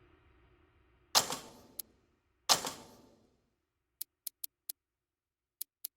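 Two sharp knocks about a second and a half apart, each dying away briefly, then a run of faint quick ticks and two more near the end.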